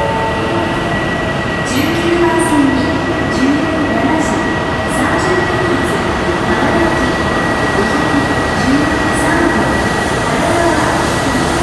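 JR East E6 and E5 series Shinkansen, coupled together, pulling out of the platform with its cars rolling past in a steady, dense running noise. Through it run a thin high whine and a lower tone that rises and falls about once a second, with a few sharp clicks in the first half.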